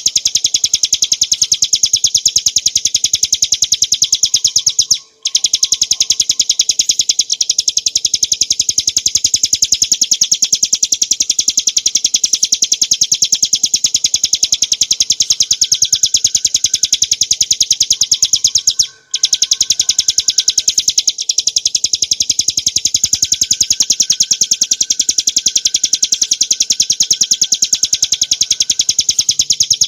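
Ciblek gunung (a small prinia) singing a continuous, high-pitched, very fast rattling trill, the 'ngebren' song used for training other birds. The song breaks off for two brief gaps, about five seconds in and again near the middle.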